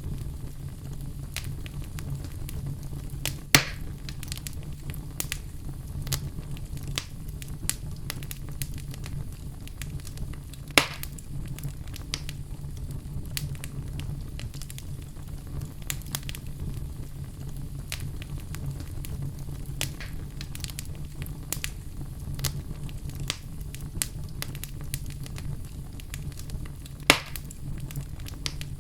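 Fire crackling: a steady low rumble with frequent small crackles, and three louder pops, one a few seconds in, one about eleven seconds in, and one near the end.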